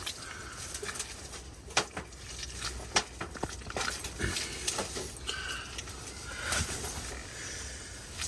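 Birds calling in the background, over scattered sharp clicks and knocks.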